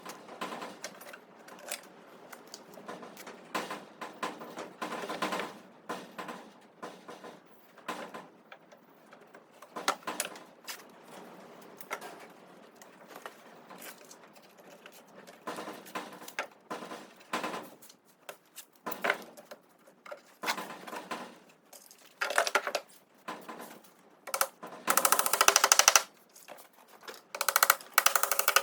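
Scattered knocks and clatter of work on wood, then near the end two loud bursts of fast, rapid rattling from a power tool, each about a second long.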